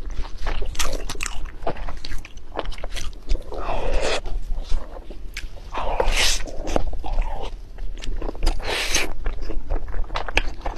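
Close-miked mouth sounds of a person eating: chewing with many wet clicks and smacks, and a few longer, louder noisy moments along the way.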